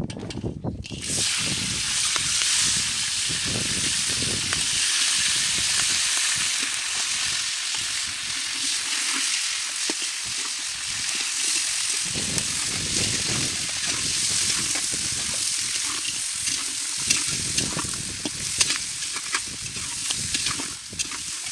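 Crabs sizzling loudly as they fry in hot mustard oil in an iron kadai, starting about a second in. A steel spatula stirs them, adding scattered clicks and scrapes against the pan.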